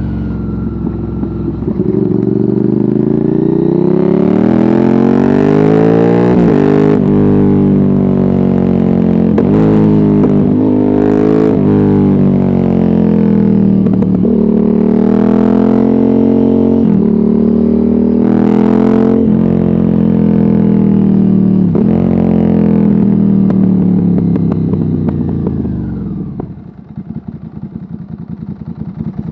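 Ducati Hypermotard 796's air-cooled L-twin through a de-catted Termignoni exhaust with no dB killer, accelerating hard through the gears. Its pitch climbs and drops sharply at each of about eight shifts. Near the end the throttle closes and the engine falls to a loud, uneven burble on the overrun.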